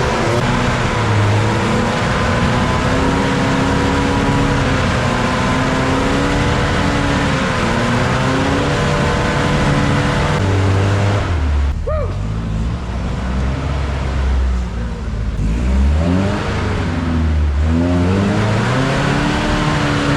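Off-road rig's engine revving repeatedly, its pitch rising and falling as the throttle is worked. It dips briefly about halfway through, then revs up and down again.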